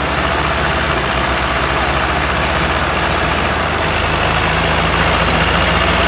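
Tractor diesel engine running steadily, a loud, even low drone with rapid firing pulses.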